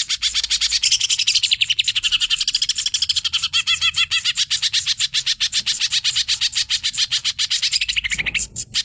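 Green leafbird (cucak ijo) singing hard in a fast, unbroken stream of short high chirping notes, about ten a second, with a brief break near the end.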